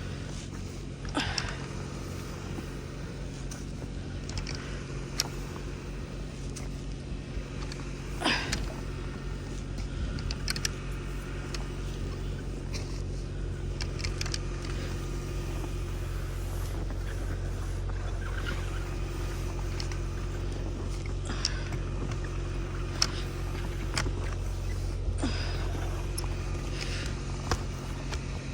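Car driving at steady speed: a low, even engine and road drone, with scattered irregular clicks and knocks over it.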